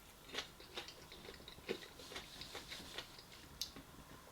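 Faint, irregular small clicks and ticks, about eight of them, over a quiet room hiss.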